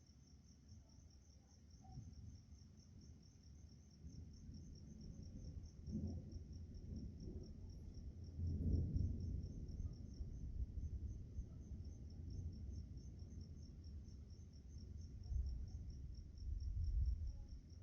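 Crickets chirping steadily in an even, rapid pulse, with low rumbles of distant thunder swelling and fading beneath them, loudest about nine seconds in and near the end.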